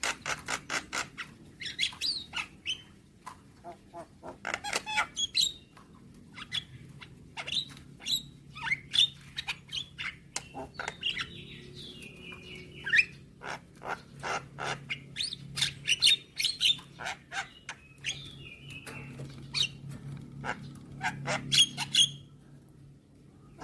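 Javan myna (jalak kebo) calling: fast trains of clicking, chattering notes mixed with harsher squeaky calls, with a short lull near the end.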